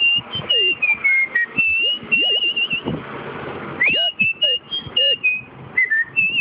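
A person whistling a melody by mouth: a string of clear gliding notes, with a wavering trill about two seconds in and again near the end.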